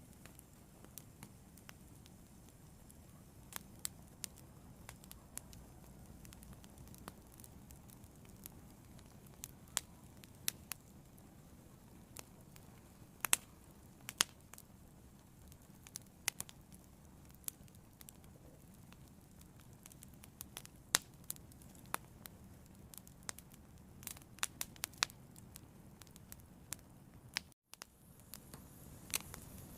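Fire burning, with sharp crackles and pops at irregular intervals over a low steady rumble. The sound drops out for a split second near the end.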